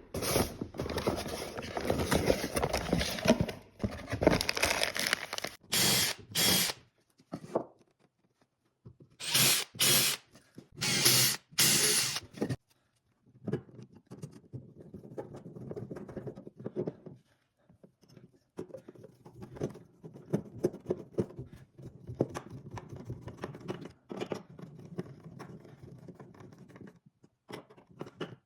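Power drill running in short bursts of a second or so, about six times in the first half, as screws are driven. After that come quieter clicks and handling noises.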